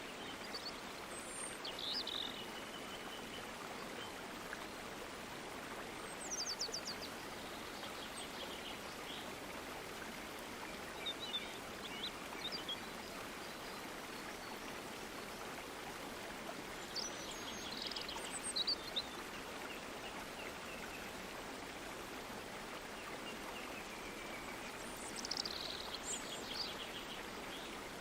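Running water flowing steadily, with birds singing in short high trills and chirps about six times.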